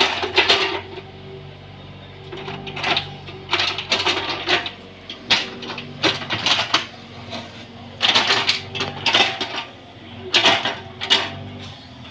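Bobcat 322 mini excavator with its diesel engine running steadily, and irregular metallic clanks and scrapes from the bucket and linkage every second or so as it works the ground.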